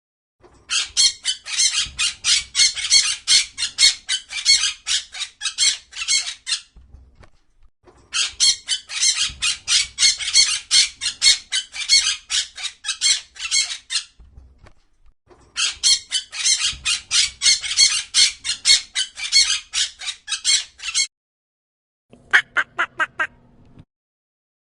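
A bird squawking shrilly in rapid, even series of about four calls a second, in three long bouts. Near the end comes a short run of lower, different calls.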